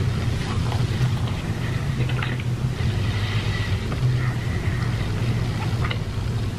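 Pizza being chewed close to the microphone, with small mouth clicks every second or so over a steady low hum.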